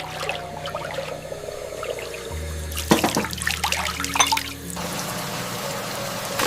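Water trickling and dripping, with a few sharp drips about three and four seconds in, over soft, sustained piano notes.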